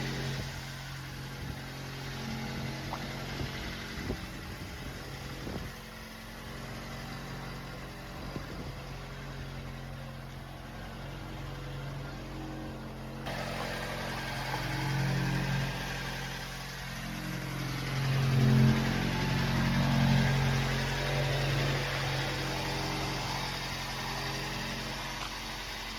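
Datsun 620 pickup's four-cylinder engine idling steadily, swelling louder twice in the second half.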